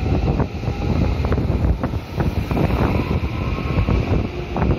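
JR West commuter electric train running past close by, its wheels clattering irregularly over the rail joints under a steady rumble, with a faint whine above.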